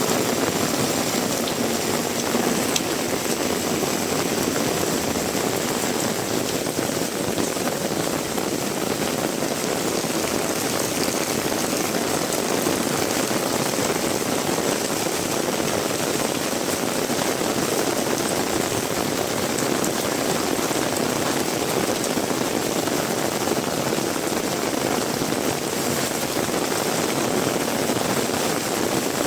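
Heavy rain falling hard and steadily, a dense, even hiss of rain with no breaks.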